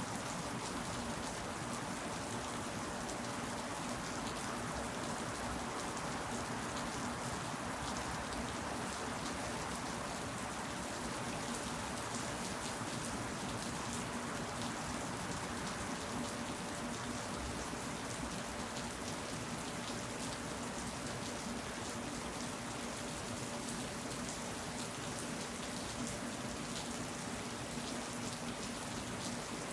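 Steady rain falling, an even wash of drops with fine crisp ticks on top and no let-up. A faint low steady hum lies underneath.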